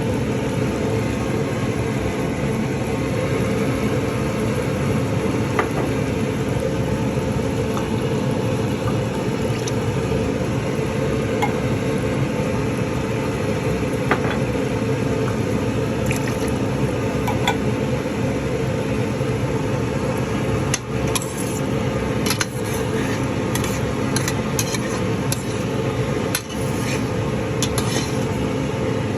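Chicken afritada cooking in a pan: a steady sizzling noise, with scattered clicks of a utensil against the pan or pot, more of them in the last third.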